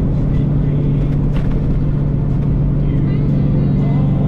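Semi truck's diesel engine and road noise heard inside the cab while cruising on the highway: a loud, steady low drone.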